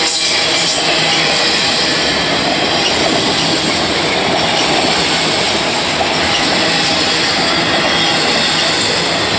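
Freight train of autorack cars rolling past: a steady, loud noise of steel wheels running on the rails.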